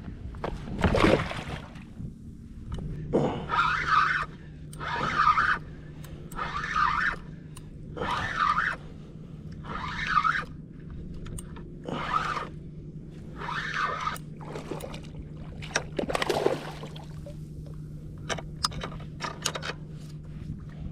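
Kayak paddle strokes swishing through the water in an even rhythm, about one every second and a half, over a steady low hum. The strokes stop about fifteen seconds in, leaving scattered light clicks.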